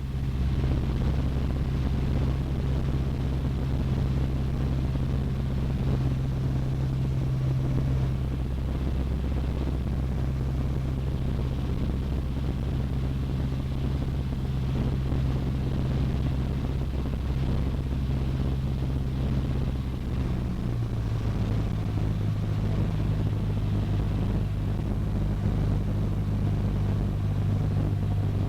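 Cessna 152's four-cylinder Lycoming engine and propeller droning steadily, heard inside the cockpit. The engine note changes about twenty seconds in, a change of power setting.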